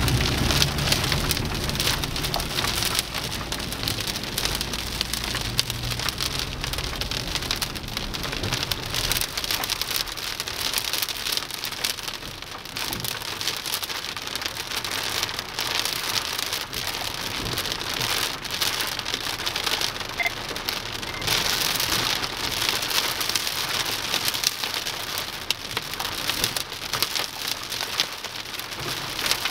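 Moderate to heavy rain, a dense, steady patter of drops hitting surfaces. A low rumble underlies it for the first several seconds, then fades away.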